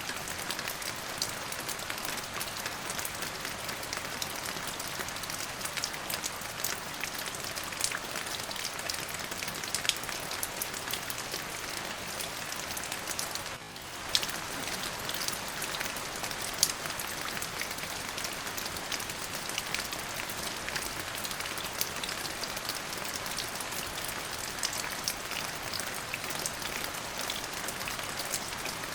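Steady rain falling on a surface, a dense even hiss with many individual drops ticking sharply through it. The sound dips for a moment about halfway through, then carries on as before.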